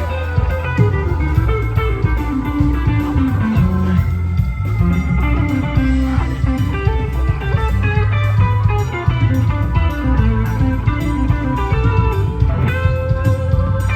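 Live rock band playing an instrumental passage: electric guitar lines over bass guitar and drums with a steady beat.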